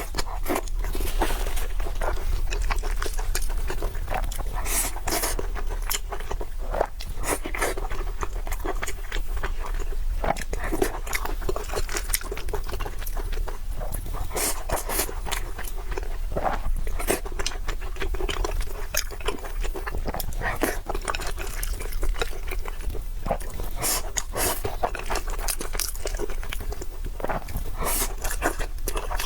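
Close-miked eating: steady chewing, with many short crunches and wet clicks from the mouth. A steady low hum runs underneath.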